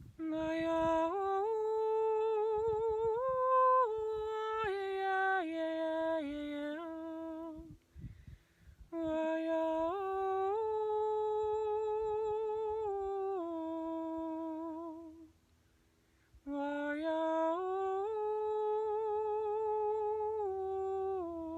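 A woman humming a slow, wordless, improvised melody in three long phrases with short pauses between. The notes step up and down and are held with vibrato, sung as a repeating mantra-like line.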